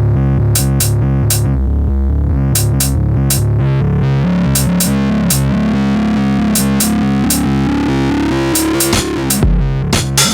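Electronic music played live on synthesizers and a groovebox drum machine (Novation Circuit Tracks, Korg Minilogue XD, Moog Werkstatt-01): a repeating synth bass pattern under sharp, regular percussion hits. About nine seconds in the bass pattern thins out and deep kick drums come in.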